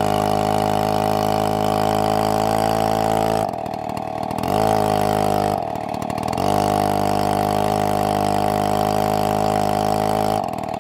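Large two-stroke chainsaw (a STIHL MS720) running at high revs. It drops back twice for about a second and climbs again, then falls away near the end.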